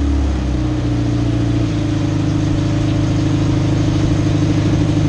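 Suzuki Samurai's swapped-in 1.6-litre 16-valve four-cylinder engine, breathing through a Doug Thorley header, idling steadily just after starting. Its idle note shifts slightly about a second and a half in.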